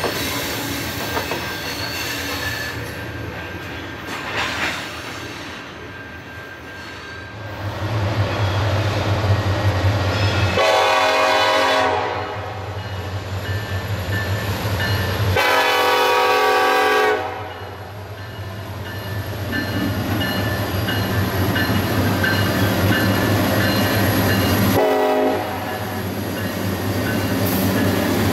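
Freight cars rolling by with thin wheel squeal. From about eight seconds in, the low drone of approaching Norfolk Southern GE C44-9W diesel locomotives, whose multi-chime air horn sounds two long blasts, then a short blast near the end.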